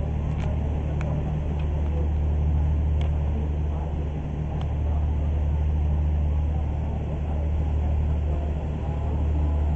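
Steady low drone of a harbour cruise boat's engine, with a few faint ticks over it.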